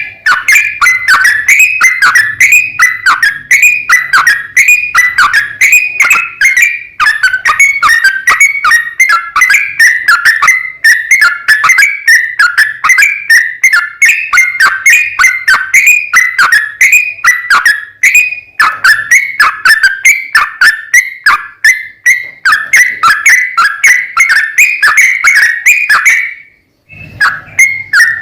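Yellow-vented bulbul (trucuk) singing a long, fast run of short whistled notes, about three to four a second, in the continuous 'ropel' style; it breaks off briefly near the end, then goes on.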